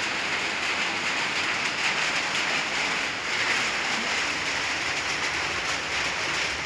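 Old Honda CB150R's single-cylinder engine running steadily through a custom Termignoni exhaust, heard as an even, raspy hiss with no revving.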